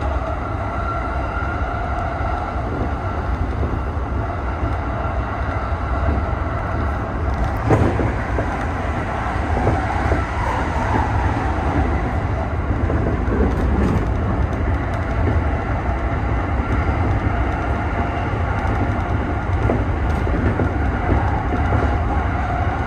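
E217-series electric train running at speed, heard from inside the driver's cab: a steady rumble of wheels on rail. Two brief knocks from the track come about eight and fourteen seconds in.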